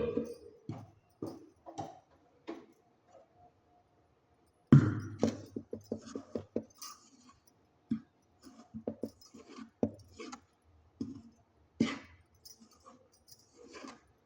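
Kitchen utensils and vessels being handled, with scattered clinks and knocks. A louder knock comes about five seconds in, followed by a quick run of small clicks.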